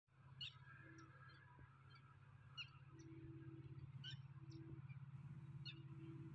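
Near silence: a few faint, short bird chirps every second or two over the low, steady rumble of a distant diesel locomotive, which grows slightly louder as it approaches.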